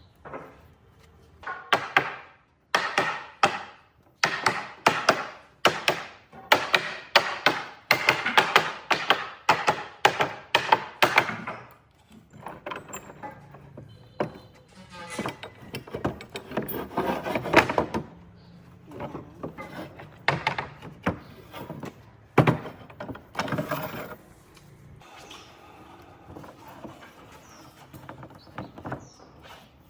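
A hand tool working wood in quick repeated strokes, about two a second, which slow to irregular strokes and scrapes about halfway through and fade near the end.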